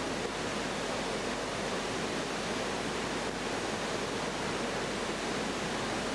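Steady rushing roar of a large waterfall, the Iguazú Falls, an even wash of falling water.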